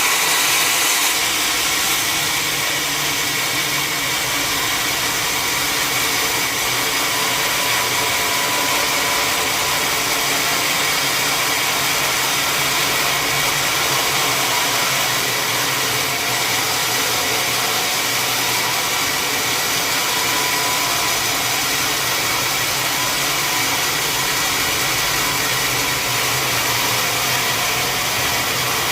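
Sawmill saw machinery running steadily: a loud, even mechanical noise with a steady whine.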